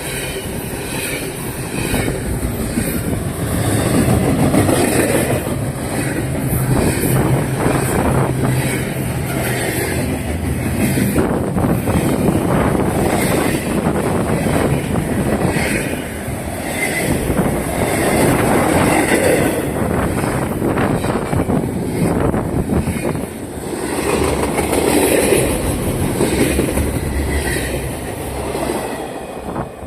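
Norfolk Southern intermodal freight train's cars rolling past close by: a steady rumble with the wheels clicking over the rail joints, and now and then a brief high wheel squeal.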